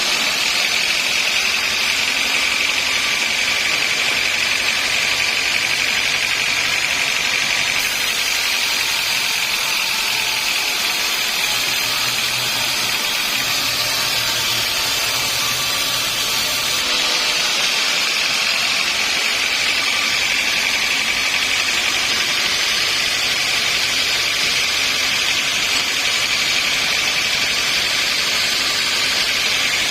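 Sawmill saw running steadily through a log, a continuous mechanical whine over engine noise.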